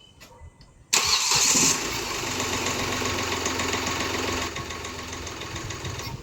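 Hyundai diesel car engine starting about a second in: a brief loud burst as it catches, then running steadily and settling a little quieter toward idle. It starts right away because the fuel system has been primed with the hand lift pump, clearing the air lock left by running the tank dry.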